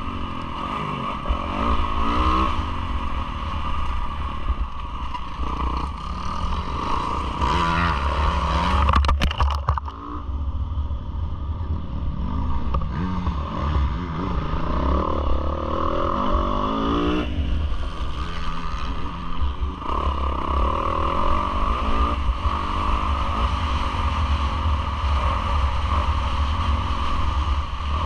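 Yamaha YZ450F motocross bike's single-cylinder four-stroke engine revving up and down through the gears, heard from on board the bike. There is a short burst of clattering knocks about nine seconds in.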